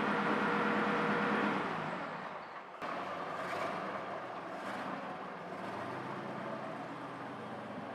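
Vintage straight-eight car engine running steadily, then easing off about two seconds in. After an abrupt cut near three seconds in, an engine runs again more quietly, with a steady low tone coming in near six seconds.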